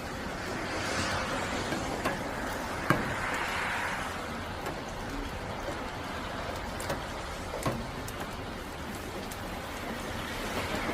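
Steady rain hiss in a thunderstorm, swelling twice near the start, with a few sharp drip or tap clicks.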